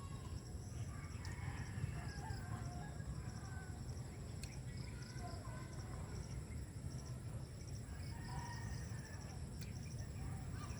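Outdoor rural ambience: faint bird calls over a high chirping that repeats in regular pulses, with a steady low rumble underneath.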